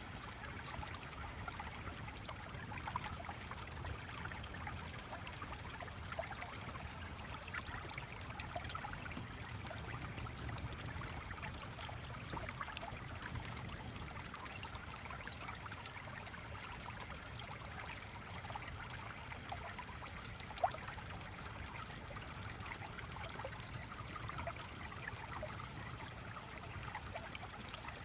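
Small stream flowing and trickling steadily, with one sharp click about two-thirds of the way through.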